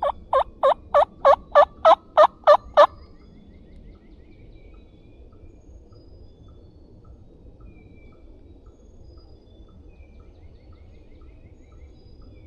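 A series of about ten turkey hen yelps, evenly spaced at roughly three a second and growing louder, over the first three seconds, then only faint background.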